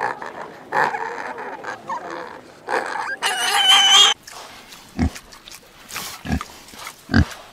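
Pigs grunting in short bursts, with one high-pitched squeal lasting about a second a little past three seconds in, then short low grunts toward the end.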